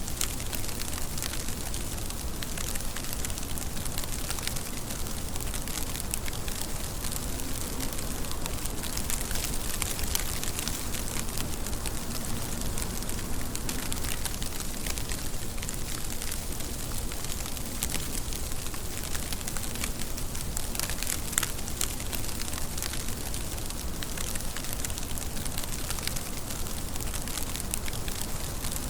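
Steady rain, a dense hiss of falling drops with many small crackling ticks of drops striking a surface.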